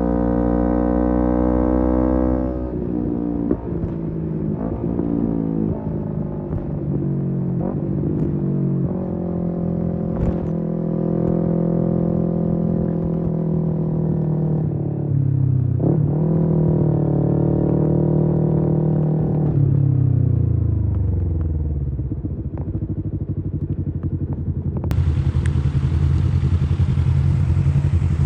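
Kawasaki Z250 engine through a SeaPro aftermarket muffler, running under way with its pitch rising and falling through several gear changes. About two-thirds of the way in the pitch drops steadily as the bike slows, settling to a low, steady beat, and a hiss comes in about three seconds before the end.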